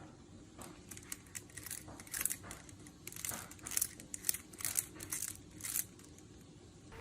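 A quiet series of short, irregular crinkling and rustling noises, like something handling paper or plastic.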